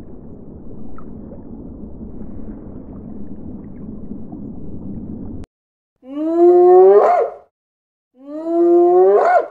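A low, steady rushing noise cuts off abruptly about five seconds in. It is followed by a spotted hyena whooping twice, each call a loud rising whoop lasting over a second.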